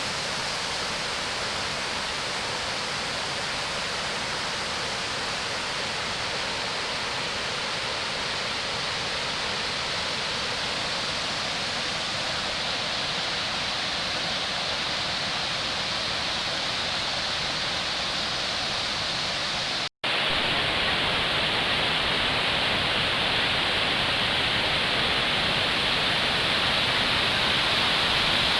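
Waterfall water rushing steadily. About two-thirds of the way through it cuts out for an instant, then comes back louder and brighter.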